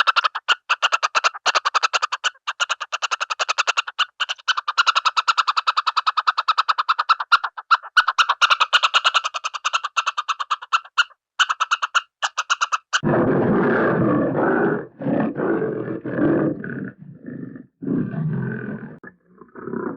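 Cartoon sound effects: a fast run of sharp, evenly spaced clicking pulses, many per second with a few brief gaps, that stops abruptly about thirteen seconds in. It gives way to a lion-like big-cat roar in several long bursts with short breaks.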